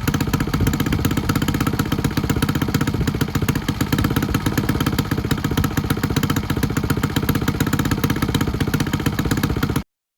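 Honda Magna 50's bored-up 72cc four-stroke single idling fast through a twin left-and-right exhaust, a steady rapid exhaust beat; the engine is not yet warmed up, so the idle runs high. The sound stops abruptly near the end.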